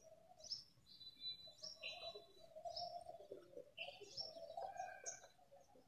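Faint chirping of small birds: short, high calls with quick pitch sweeps, repeated many times, over a faint low steady hum.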